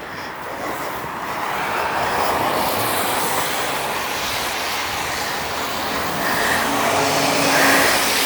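A car driving past on the street: tyre and engine noise swelling over several seconds, loudest near the end, where a low steady engine hum comes in.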